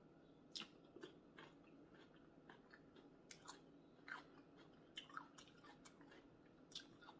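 Faint close-up eating sounds: a person biting and chewing food, heard as irregular short wet mouth clicks.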